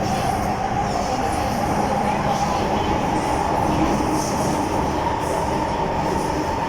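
MTR M-Train electric multiple unit running between stations, heard on board: a steady rumble of wheels on the track with a whine that rises slowly in pitch.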